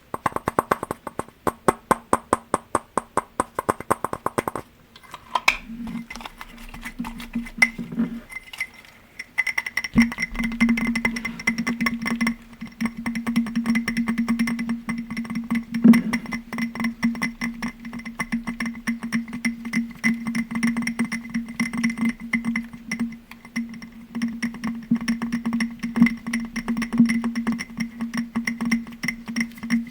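Fast tapping on glass objects, each tap ringing. It starts as a quick, even run of taps that stops after about four seconds, with a few scattered strikes after it. About ten seconds in, a denser fast tapping starts, with steady ringing tones held under it to the end.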